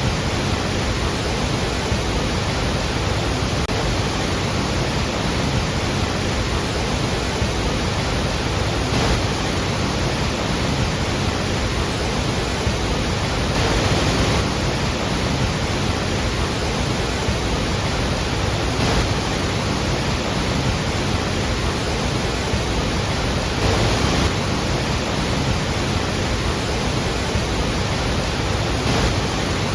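Iguazu Falls: a large waterfall's falling water, a loud, steady, even rush.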